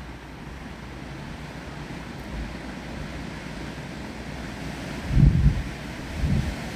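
Wind and rain making a steady hiss, with gusts of wind buffeting the microphone in low rumbles about five seconds in and again near the end.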